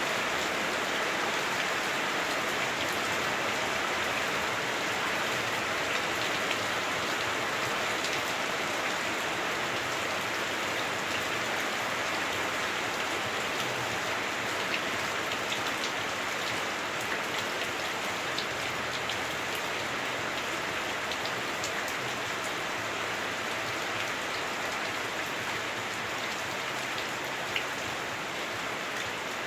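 Heavy rain on a house roof heard from inside the house: a steady, dense hiss of rain with scattered drop ticks.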